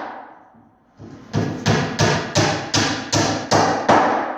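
Hammer blows driving nails into the wooden framing of a salt box: a pause, a light tap about a second in, then about eight strong, ringing blows at roughly three a second.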